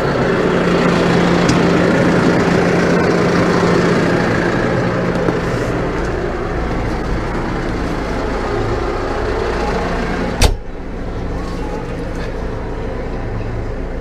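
New Holland T5 120 tractor's diesel engine idling steadily. About ten and a half seconds in there is a single sharp bang, after which the engine sounds quieter and duller.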